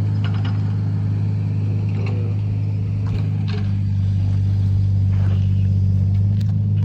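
Vehicle engine running steadily, a low even hum that grows a little louder about halfway through.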